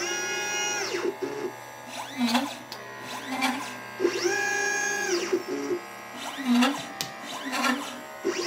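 LitePlacer pick-and-place machine's stepper motors whining as the placement head travels. Each move ramps up in pitch, holds steady for about a second and ramps down, with shorter buzzing moves and clicks between. The cycle repeats about every four seconds as parts are picked and placed.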